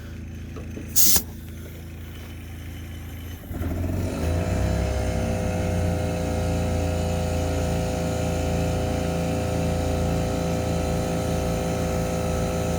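A short hiss of air about a second in, then a motor starts about three and a half seconds in and runs steadily.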